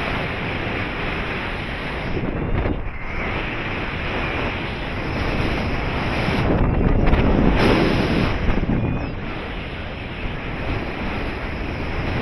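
Airflow rushing over the microphone of a flying paraglider pilot: a loud, steady rush of wind that swells and eases.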